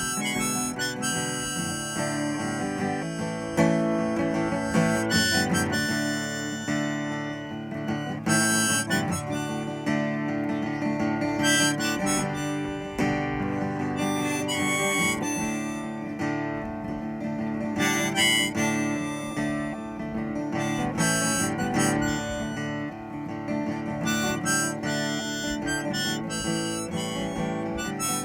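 Harmonica playing a melody over acoustic guitar accompaniment.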